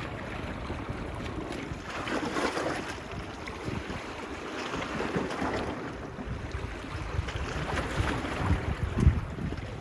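Small waves washing onto a beach, swelling about two seconds in and again about five seconds in, with wind buffeting the phone's microphone in low gusts, the strongest near the end.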